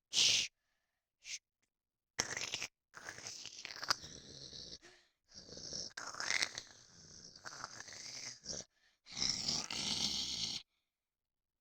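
Breathy vocal noises made close to a microphone, in several bursts of a second or two with dead-silent gaps between them.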